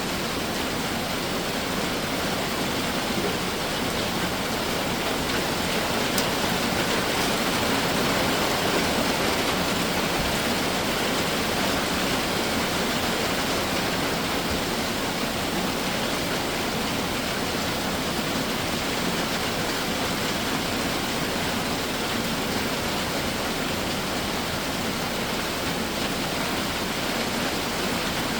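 Summer rain shower falling steadily as a dense, even hiss, swelling a little several seconds in.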